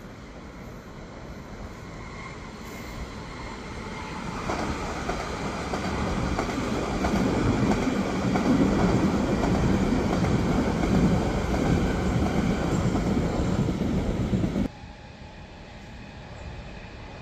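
Stockholm commuter train, an Alstom Coradia X60 electric multiple unit, approaching and running past close by, its wheels rumbling on the rails. The sound grows over several seconds, holds loud, then drops away suddenly near the end.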